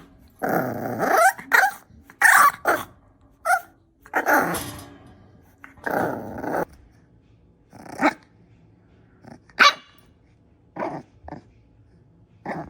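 A dog growling and barking in a string of loud, uneven outbursts, with longer growls in the first few seconds and short single barks after that.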